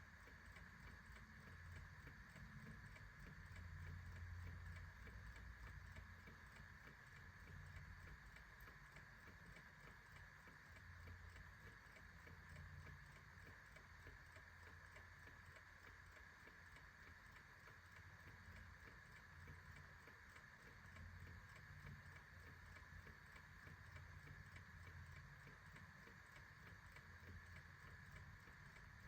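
Clock ticking faintly in a steady, even run of ticks, over a faint low rumble.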